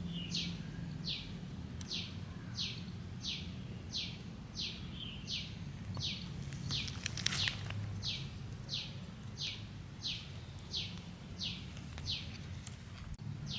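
A bird repeating one short call, a note that slides steeply down in pitch, about three times every two seconds throughout. Around the middle there is a brief rustling noise, over a steady low background hum.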